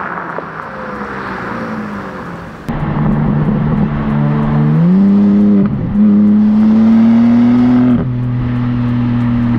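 BMW M3 Competition (G80)'s twin-turbo 3.0-litre inline-six under hard acceleration. The engine note eases down at first, then about three seconds in it gets suddenly louder and climbs in pitch. It dips briefly halfway through and then holds a high, slowly rising note, which goes a little quieter near the end.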